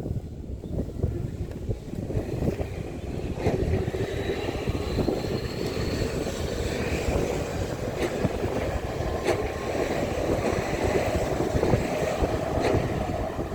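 Yokohama Minatomirai Railway Y500-series electric train accelerating away from a station. Its traction motors whine, rising in pitch as it gathers speed, over a steady low rumble. Sharp clicks from the wheels passing over rail joints come every few seconds.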